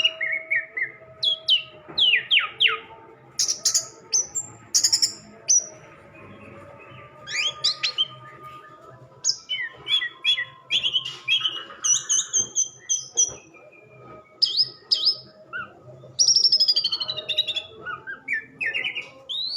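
Orange-headed thrush (anis merah) singing: a varied song of whistled phrases, sliding notes and rapid trills, with short pauses between phrases.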